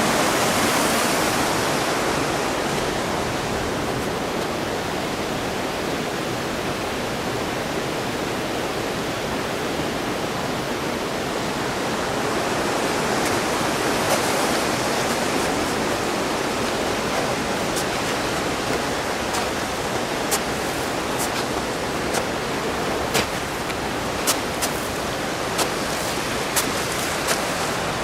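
Steady rushing of a mountain stream's water. Sharp ticks come over it, scattered through the second half.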